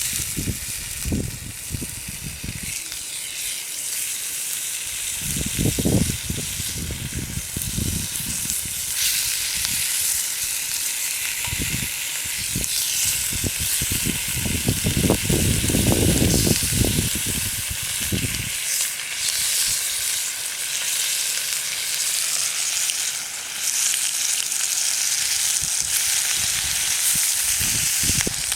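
Food sizzling and frying in a pan over a campfire: a steady high hiss, with irregular low rumbles coming and going.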